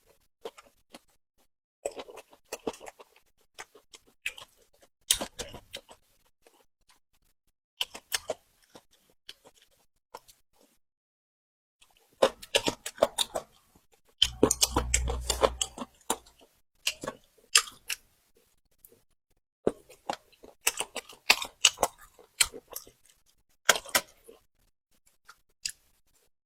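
Close-up eating sounds: chewing and crunching of food in irregular bursts of sharp clicks and crackles, with a brief low rumble about halfway through.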